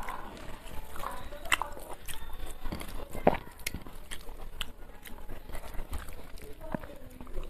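Close-up eating sounds: mouth chewing a mouthful of rice, with irregular wet clicks and smacks, and fingers squishing rice mixed with dal on a plate. The loudest smack comes a little past three seconds in.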